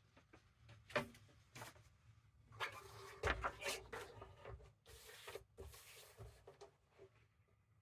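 Paper being cut and handled on a craft table: scattered light knocks and rubbing, busiest about three to four seconds in.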